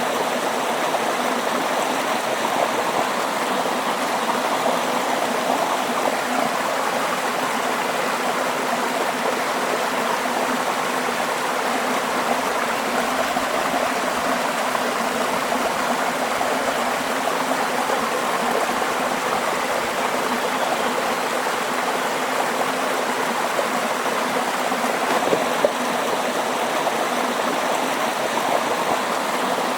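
Water flowing steadily, an even continuous rush with no breaks.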